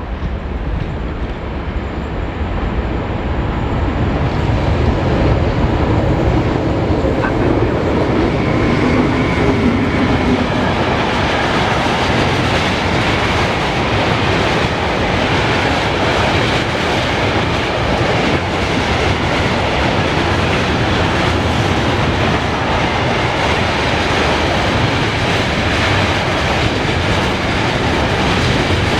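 A freight train passing through the station, its wheels clattering over the rail joints. It grows louder over the first few seconds, then runs on steadily.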